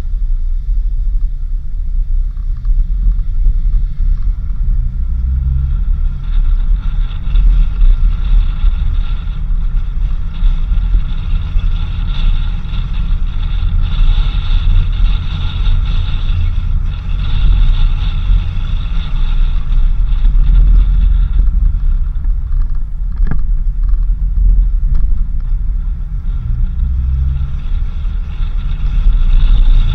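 Four-wheel-drive vehicle driving on a country road: a loud, steady low rumble of engine and tyres, with a steady high whine on top.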